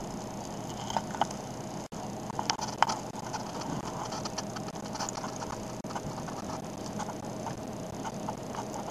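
A small mechanism running with a steady whine and irregular light clicks.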